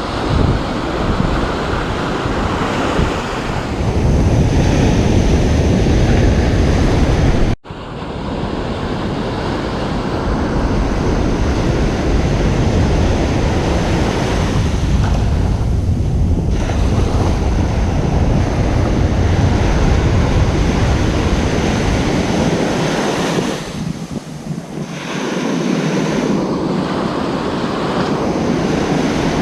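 Ocean surf washing onto a beach, a steady rushing noise, with wind buffeting the microphone. The sound cuts out abruptly for an instant about a third of the way through.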